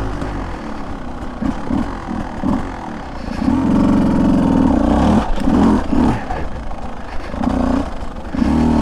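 Beta 200 two-stroke dirt bike engine running, the throttle opened and closed in repeated surges, getting louder from about three and a half seconds in.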